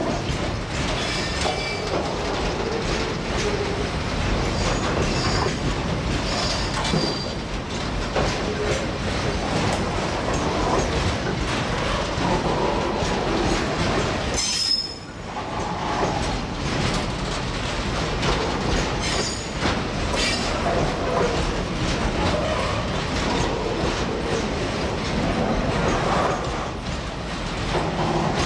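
Double-decker car-carrier freight wagons rolling past close by: a steady rumble of steel wheels on rail with rhythmic clatter over the rail joints, and short high wheel squeals now and then in the first several seconds. The noise drops briefly about halfway through.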